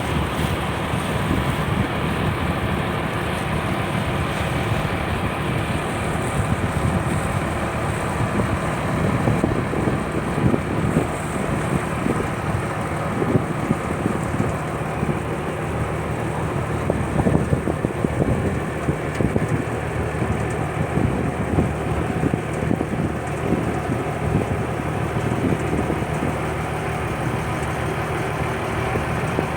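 A purse-seine fishing boat's engine running steadily, with irregular knocks over it.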